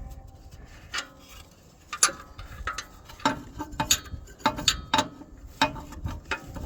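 Hand tools clicking and clinking against metal as bolts are worked loose: a string of irregular sharp clicks, some with a short metallic ring.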